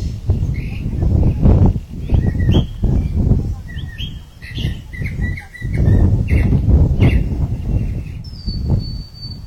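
Small birds chirping and whistling over and over, with a few longer whistled notes near the end, over a loud, uneven low rumble that swells and fades.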